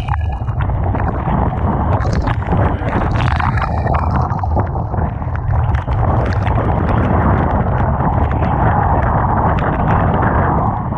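Typhoon wind buffeting the microphone over rough, crashing sea and surf, with a heavy low rumble throughout. The rush of surf grows stronger about halfway through and eases near the end.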